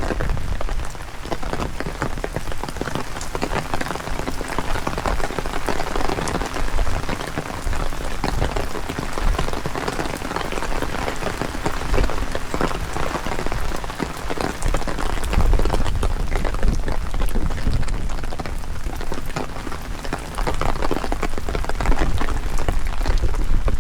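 Heavy rain falling steadily, a dense patter of countless drops hitting surfaces, with a low wind rumble underneath.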